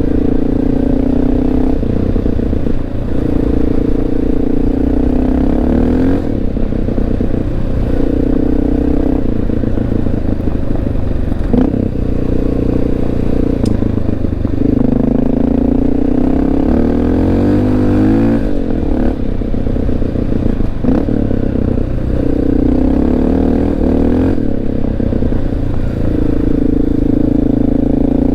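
Honda XR650L's single-cylinder four-stroke engine pulling the bike along, its revs climbing and dropping back several times as the rider shifts through the gears, with tyres rolling on gravel.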